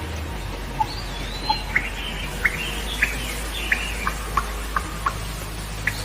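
Small birds chirping: a string of short, sharp chirps every half second or so, with one whistled note that rises and falls about a second in, over a steady hiss and low hum.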